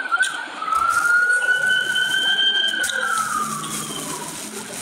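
Emergency-vehicle siren wailing: the tone rises just after the start, holds high for a couple of seconds, then slides down toward the end.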